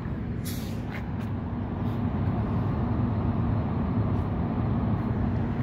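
Standing EXO commuter train idling at the platform, making a steady low rumble. A short hiss comes about half a second in.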